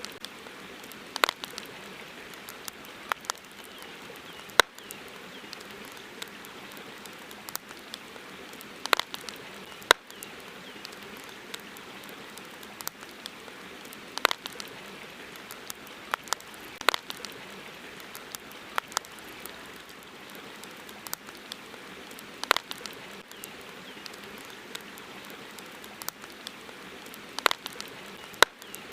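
Wood campfire crackling, with sharp, irregular pops a few times every couple of seconds over a steady hiss.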